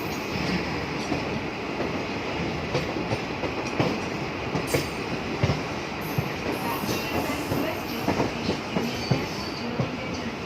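A passenger train running on the rails: a steady rumble with frequent, irregular knocks of the wheels passing over rail joints.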